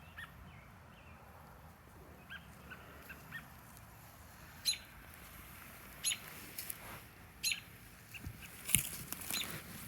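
Birds calling: a few faint chirps, then from about halfway on a series of short, sharp, high-pitched calls, roughly one every second or so.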